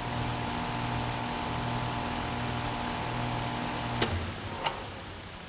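Heat pump outdoor unit shutting down: the steady hum of the compressor and fan runs, then about four seconds in a sharp click comes as it switches off and the hum cuts out. A second click follows just after, and the remaining fan noise fades away.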